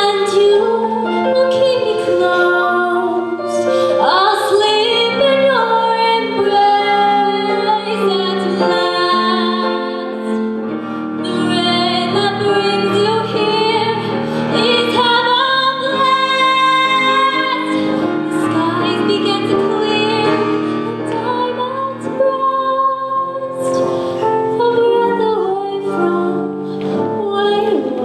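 A girl or woman singing a slow ballad to piano accompaniment, her voice gliding between held notes over sustained low piano chords.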